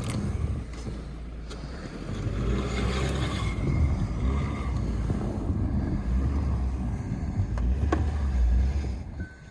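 A Jeep driving through deep snow: a low, uneven rumble of the engine and tyres, dropping away just before the end.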